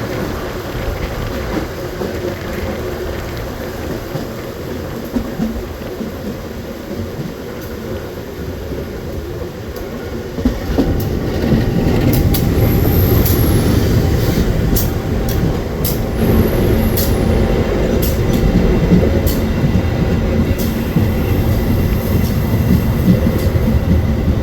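Passenger train running along the track, a steady rumble of wheels on rails that gets louder about eleven seconds in. Scattered sharp clicks and a couple of faint high squeals come in over it.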